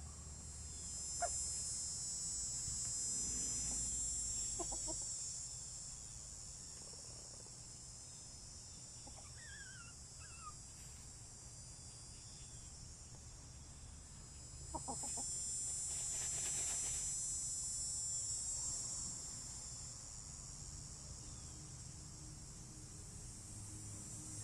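Backyard hens making occasional short clucks and soft calls while dust bathing. Under them a high insect buzz swells and fades twice, once a few seconds in and again past the middle.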